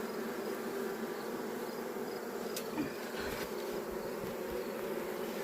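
Many honeybees buzzing in a steady, dense hum from a colony disturbed inside the opened house wall, with a couple of faint clicks midway.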